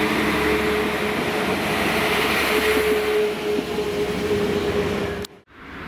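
A Class 197 diesel multiple unit pulling out of a station platform: steady engine and wheel running noise with a level whine. The sound cuts off abruptly near the end.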